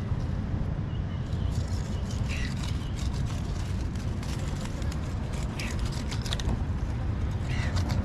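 Steady low rumble with a bird giving a short call about every two seconds, and scattered clicks through the middle.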